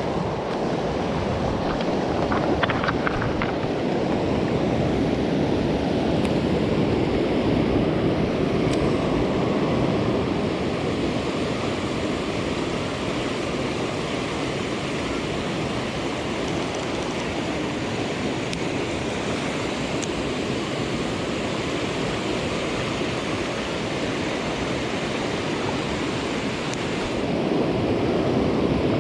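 Rain-swollen stream rushing steadily over its bed, a little louder near the end.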